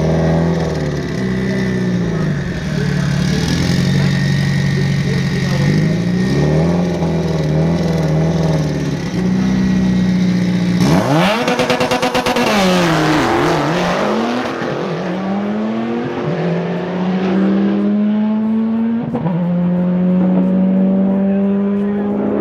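Drag-race car engines revving up and down at the line, then a loud launch about eleven seconds in. Their pitch climbs and drops with each gear shift as they pull away down the track, growing more distant.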